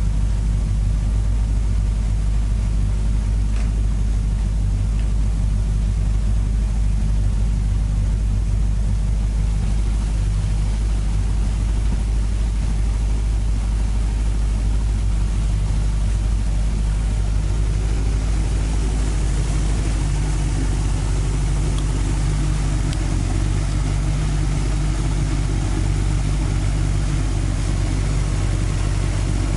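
Toyota 5-valve (20-valve) 4A-GE engine on carburettors idling steadily, with the carbs' idle synchronisation seemingly out. A brighter hiss comes in about two-thirds of the way through.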